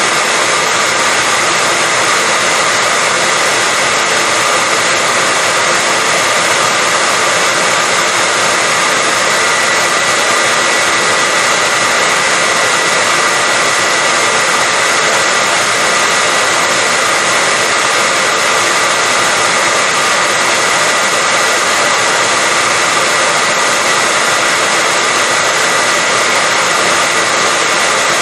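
Hair dryer running continuously at a steady, unchanging pitch: a loud, even rush of air with a steady high whine from the motor and fan.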